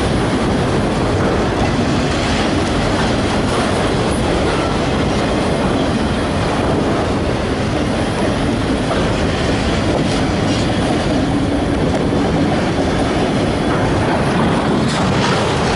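CN freight train's cars rolling past close by: a steady, loud rumble of steel wheels on the rails.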